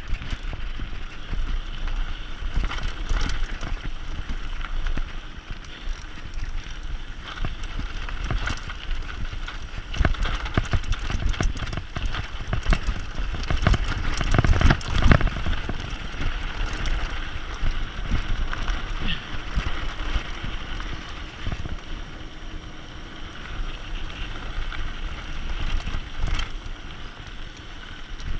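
Mountain bike descending a rough dirt trail: tyres rumbling and crunching over the ground, with frequent rattles and knocks from the bike over bumps, heaviest about halfway through, and wind buffeting the microphone.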